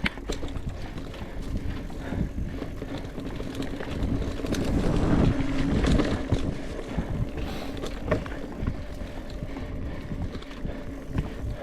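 Mountain bike rolling over a dirt trail: tyre rumble and rattling knocks from the bike, with wind on the microphone. It gets louder for a couple of seconds in the middle.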